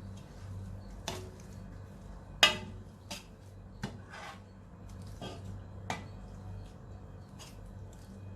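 Metal spatula knocking and scraping against a steel (not non-stick) pan while fried onions are stirred into thick gravy: several separate sharp clinks, the loudest about two and a half seconds in, over a low steady hum.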